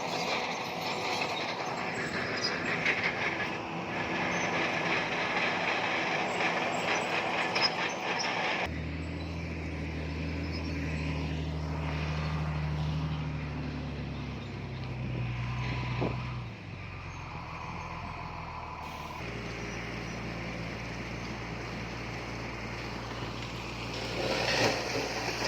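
Heavy diesel earthmoving machinery working. For the first several seconds there is a dense clanking, grinding noise of engine and stone. Then, after abrupt changes, a steady low diesel engine hum.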